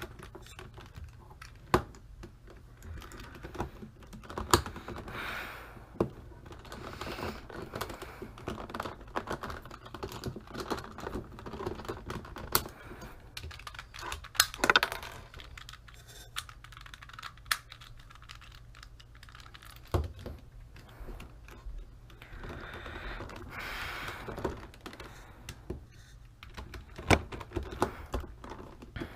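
A plastic 4x4 Rubik's cube being handled and turned: irregular clicking and clacking of its pieces over a soft rustle, with a few sharper snaps now and then.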